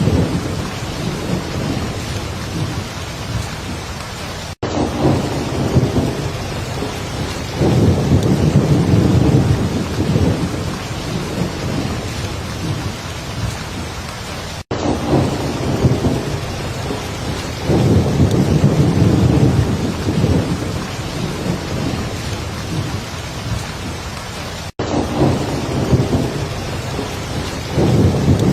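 Heavy rain falling steadily, with low thunder rumbling that swells up every ten seconds or so. The whole sound cuts out for an instant three times, about ten seconds apart.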